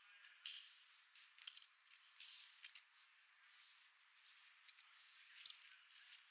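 Small birds at a seed feeder: a few short, very high, thin call notes, the loudest about five and a half seconds in, among light scratching and tapping.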